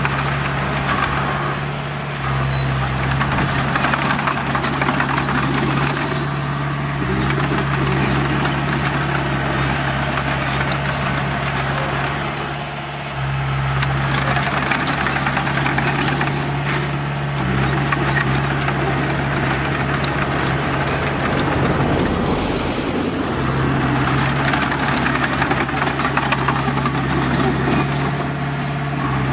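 Heavy diesel engine of a bulldozer running, its note strengthening and easing every few seconds as the machine works.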